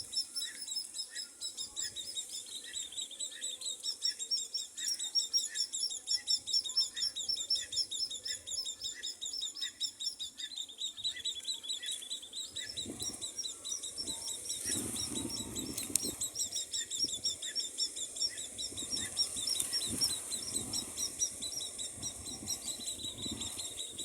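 Baby bird peeping continuously in a fast, high-pitched train of begging calls. From about halfway through, soft irregular rustling or fluttering joins the peeps.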